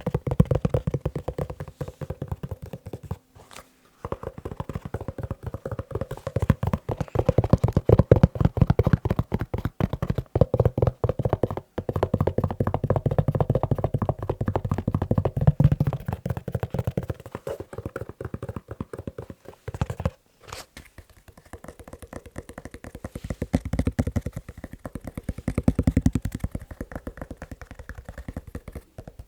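Fast, rapid tapping on a leather shoe close to the microphone, many taps a second, with a few brief pauses.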